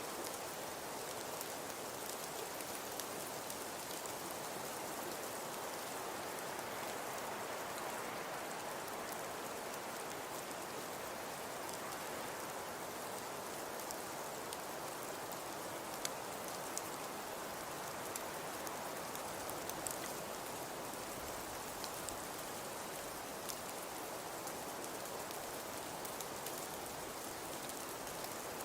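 Fireplace crackling: a steady soft hiss with a few scattered sharp pops.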